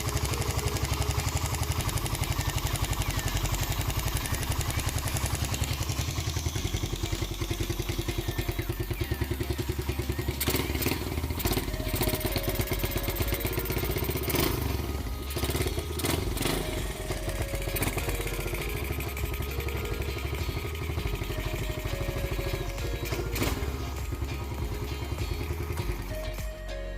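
Suzuki Raider 150 motorcycle's single-cylinder four-stroke engine idling steadily, with a few sharp knocks and clatters in the middle.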